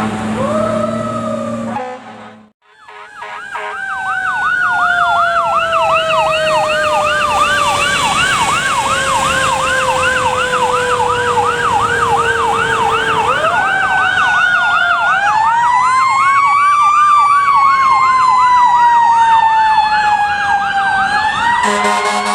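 Fire ladder truck sirens: an electronic siren in a fast yelp, sweeping up and down a few times a second, over a mechanical siren that winds slowly down, then back up and down again. In the first two seconds there is a steady horn blast and a rising siren tone, then a brief drop-out.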